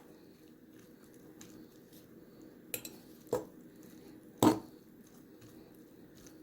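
Spaghetti being stirred in a bowl, with a utensil clinking against the bowl a few separate times. The loudest knock comes about four and a half seconds in.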